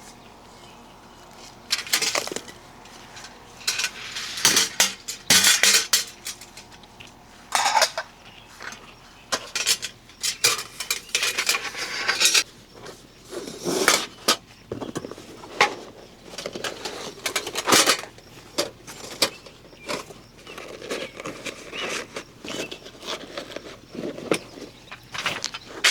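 Dishes and cutlery clinking and clattering in irregular bursts, as they are handled and set down one after another.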